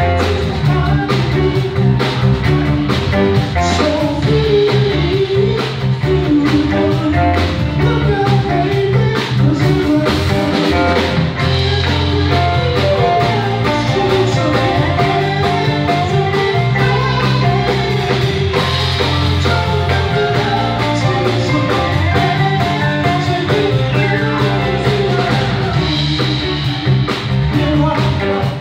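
Blues-rock band music with guitar, bass and drums keeping a steady beat.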